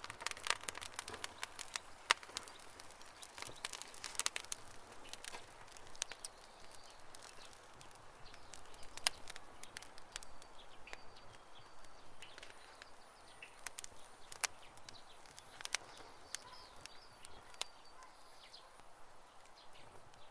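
Wood campfire crackling: irregular sharp pops and snaps over a faint hiss, busiest in the first few seconds.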